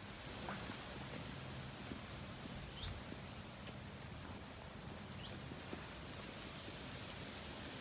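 Faint outdoor background hiss, with a small bird giving two short rising chirps, about three and five seconds in.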